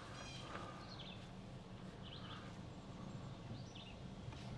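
Songbirds chirping and trilling faintly in short scattered calls, over a steady low hum.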